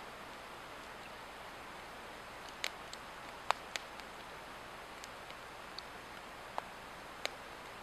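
Swedish torch log fire crackling: scattered sharp pops of burning wood over a steady hiss.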